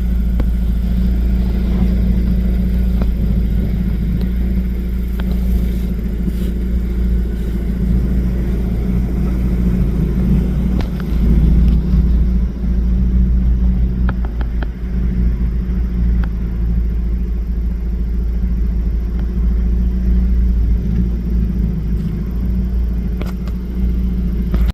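A 4x4's engine running steadily as it drives off-road, with a deep rumble. It gets louder for a moment about halfway through, then the sound cuts off suddenly at the end.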